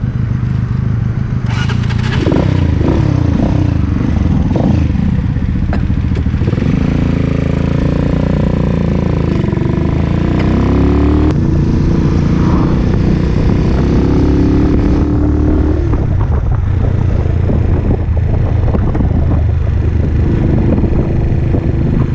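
Keeway K-Light 202 motorcycle engine pulling away and accelerating, its pitch rising and falling as the rider works up through the gears, heard from the rider's seat.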